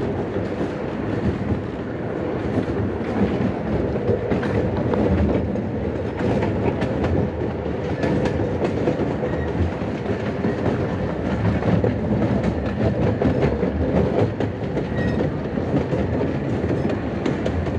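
Open passenger cars of a 15-inch-gauge miniature steam train rolling along the track: a steady rolling noise with frequent small clicks from the wheels on the rails.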